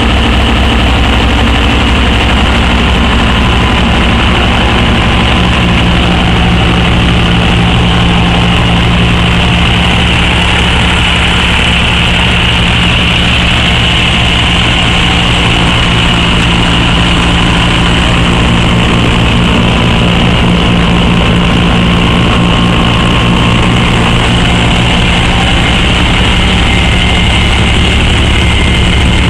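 Diesel engine idling steadily, a constant loud drone that does not change in speed.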